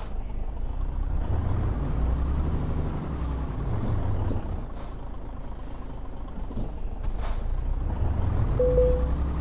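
Tanker truck's diesel engine running under way, its pitch rising and falling as the driver works the throttle, with a brief hiss about seven seconds in and a short beep near the end.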